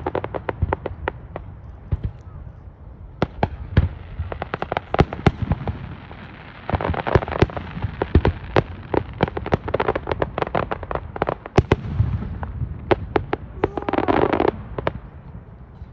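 Fireworks going off: a rapid run of sharp bangs and pops over a low rumble, thickening into dense crackling bursts around the middle and again near the end.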